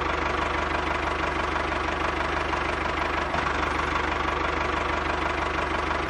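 Small electric motor of a homemade miniature chaff cutter running steadily, with a fast, even rattle.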